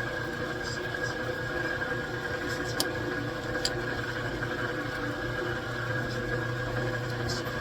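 A metalworking machine tool running steadily with no cut being made, a constant mechanical hum, with two faint clicks near the middle.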